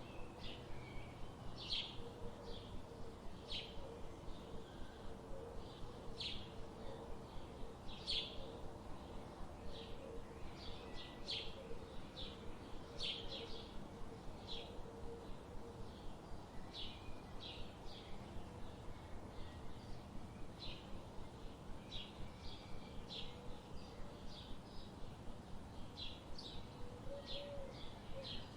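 Forest ambience: birds giving short, high chirps, roughly two a second at irregular intervals, over a soft steady background hiss.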